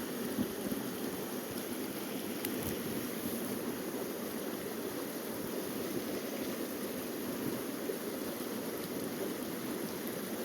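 Small creek flowing, a steady, even rush of running water.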